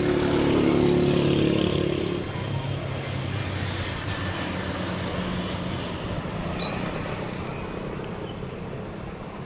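A motor vehicle's engine passes close by, loudest about a second in and fading after about two seconds, followed by steady street traffic noise.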